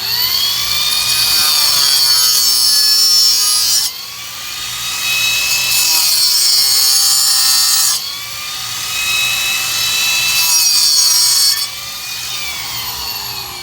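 Power tool working PVC pipe in three long passes, its motor pitch shifting under load with a grinding hiss.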